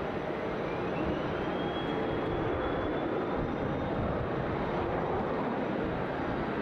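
Jet airliner engines running under power, a steady rushing rumble with a thin whine that rises in pitch over the first two seconds and then holds.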